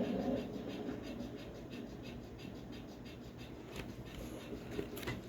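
Faint, rapid scratching and clicking, several times a second, over a low hum, with a few sharper clicks near the end.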